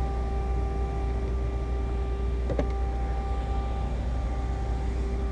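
Steady machine hum: a low drone with a constant whine over it, and a brief scrape about two and a half seconds in.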